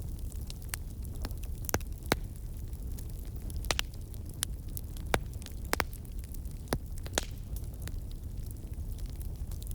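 Wood fire crackling: scattered sharp pops and snaps, a dozen or so, over a steady low rumble of burning.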